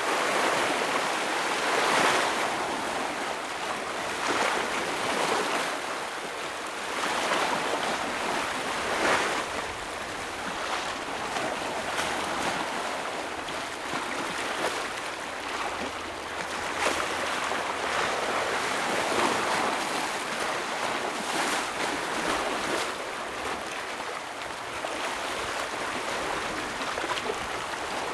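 Ocean waves breaking and washing over rocks, a steady rush of surf that swells every few seconds.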